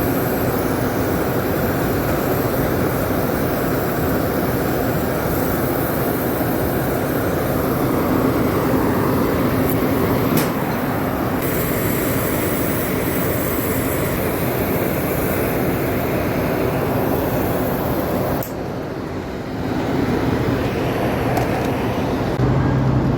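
Loud steady machinery noise, a dense rumble and hiss over a low hum, from rooftop air-conditioning equipment running. The level drops for about a second roughly two-thirds through, then comes back.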